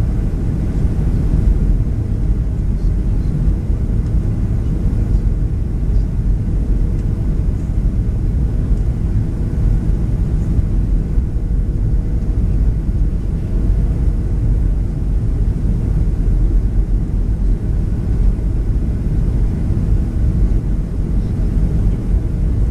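Steady in-flight cabin noise of a Boeing 737-700: an even low rumble of engines and airflow, with a faint steady hum, unchanging throughout.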